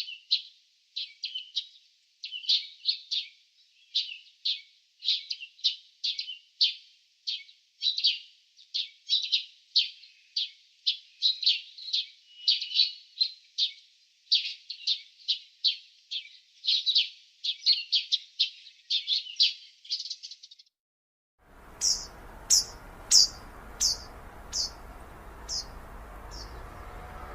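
Small songbirds chirping: a rapid, busy run of short high chirps, several a second. About 21 seconds in it cuts to a different recording with a steady outdoor hiss, where a single series of higher chirps slows and fades.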